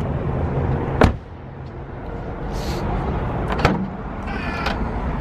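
A BMW E39 540i's car door shutting with a single loud thump about a second in, then a lighter latch click a few seconds later, over a steady low rumble.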